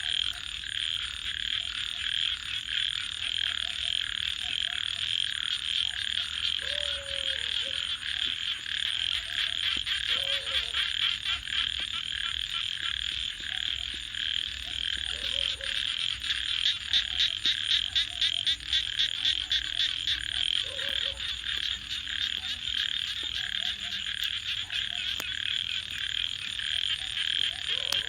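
A chorus of frogs calling at night: a dense, steady trilling, a louder fast-pulsed trill around the middle, and short lower croaks every few seconds.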